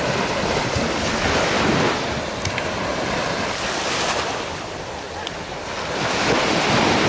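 Ocean surf washing on the beach, with wind rumbling on the microphone. The wash eases about five seconds in and builds again near the end.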